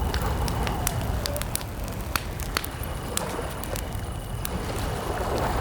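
Wood campfire crackling with scattered sharp pops over a low rumble, with calm lake water lapping and a steady high chirring of crickets.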